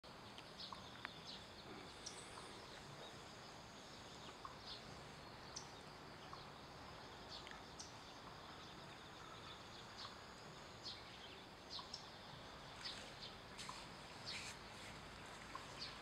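Faint outdoor ambience with scattered short, high-pitched bird chirps, coming more often near the end.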